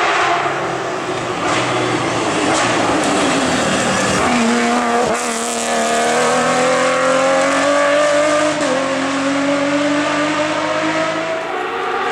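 Hill-climb race car engine at full throttle, its pitch climbing steadily through a gear and dropping sharply for an upshift about two-thirds of the way through, then climbing again.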